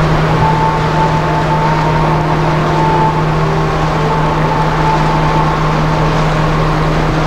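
Steady low drone of the cruise ship Mein Schiff 7's engines and machinery under way, a constant hum with a thin wavering higher tone above it.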